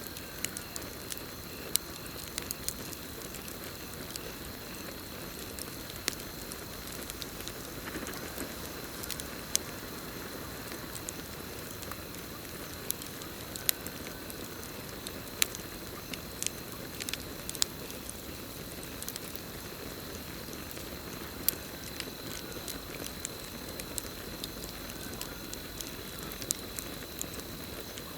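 Wood campfire burning: irregular crackles and sharp pops over a steady rush of flame. Crickets trill steadily and high behind it, fainter through the middle.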